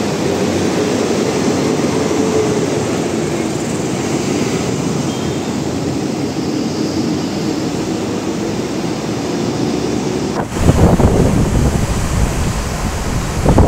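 Philippine National Railways train running past, a steady rumble with wind noise on the microphone. About ten seconds in it changes abruptly to a louder, gusty low rumble.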